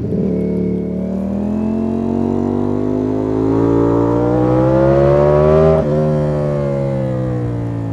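Ducati Panigale V4 S's V4 engine, heard onboard, pulling up through the revs for about five seconds, then the pitch drops suddenly near six seconds, as at a quick upshift, and the revs ease slowly down afterwards.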